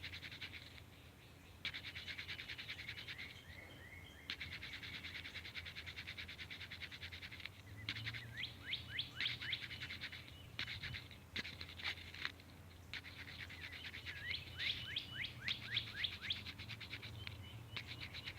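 Birds calling: long runs of rapid, dry chattering trills, then from about eight seconds in, many short chirps that sweep quickly downward, repeated in quick series.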